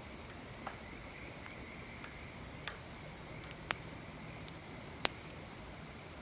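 Wood fire crackling: a few sharp, separate pops, the loudest about 3.7 and 5 seconds in, over a faint steady hiss.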